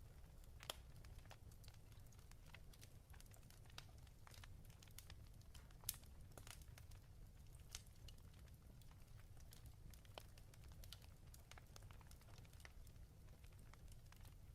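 Faint fireplace crackle: irregular small pops and snaps over a low steady rumble, with a slightly louder pop about six seconds in.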